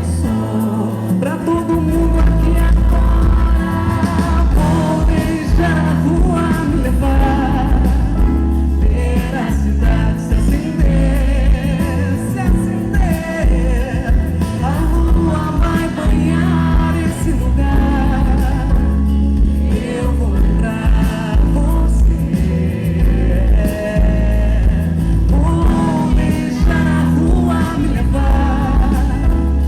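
A Brazilian pop song performed live: a female lead vocal sung over a full band with a heavy, steady bass.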